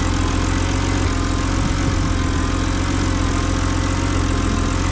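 BMW X3's engine idling steadily.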